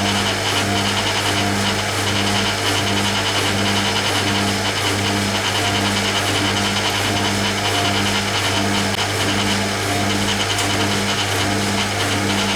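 Hoover Keymatic A3112 washing machine draining after its third rinse: a steady low motor hum with a pulsing beat, somewhat under twice a second.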